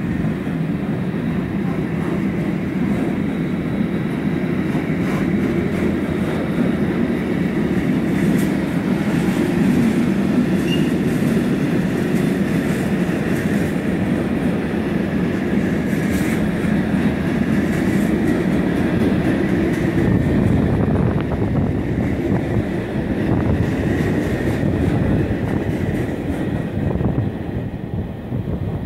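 Freight train of covered sliding-wall wagons rolling past at close range: a steady, loud rumble of steel wheels on rail. It fades away near the end as the last wagon clears.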